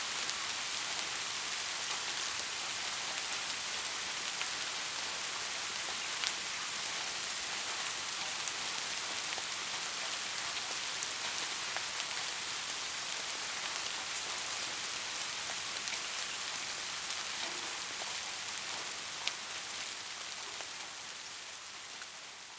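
Steady rain with a few sharper drop ticks standing out, fading out near the end.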